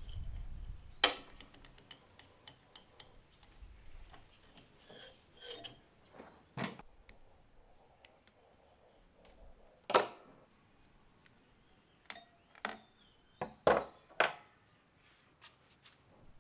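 Tools and metal parts being handled on a workbench: scattered sharp knocks and clinks, about a dozen in all, the loudest about a second in and at about ten seconds, with a quick cluster near the end.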